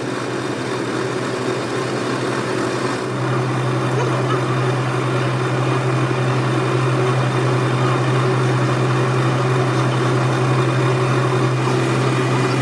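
A machine running steadily with a low, even hum that gets louder about three seconds in.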